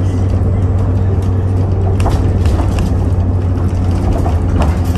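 Train running, a loud steady low hum with a few sharp clicks about two seconds in and again near the end.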